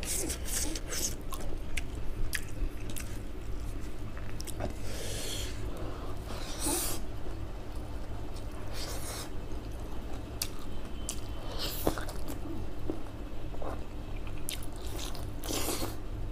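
Close-miked chewing and biting as a man eats by hand: wet mouth smacks and clicks, with a few longer, noisier bursts every couple of seconds.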